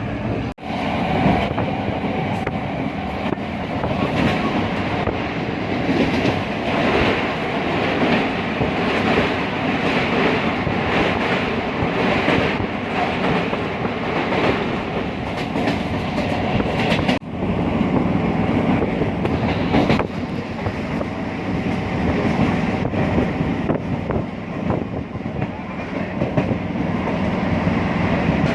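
Passenger train running along the track: a steady rumble and rattle of wheels and carriage, which cuts out for a moment twice.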